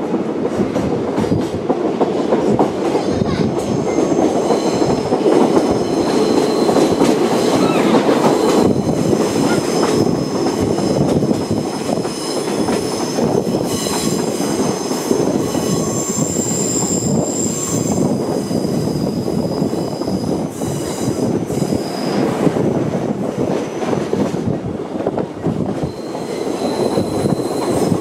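Torokko train running along a winding line, heard from aboard its open-air car: a steady rumble of steel wheels on rail with clicks over rail joints. A high, thin wheel squeal from curves comes and goes through most of the middle, loudest a little past halfway.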